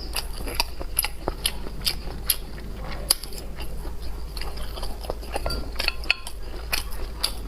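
Close-miked eating sounds: chewing, with quick irregular clicks several times a second.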